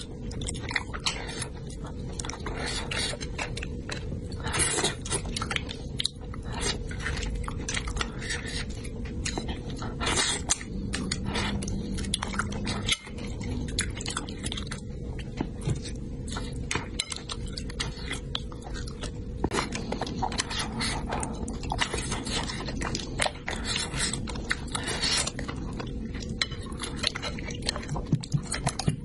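Mouth sounds of someone eating spicy braised fish: wet chewing and smacking, with irregular small clicks of chopsticks against the bowl, over a steady low background hum.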